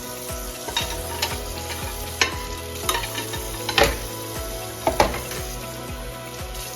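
Background music with a steady beat, with several short, sharp scraping noises over it, the loudest near the middle and about five seconds in.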